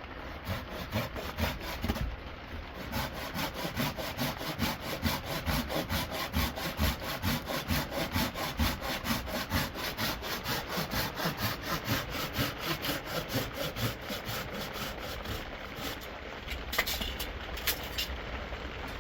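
Hand saw cutting wood in steady back-and-forth strokes, about four a second, stopping a few seconds before the end.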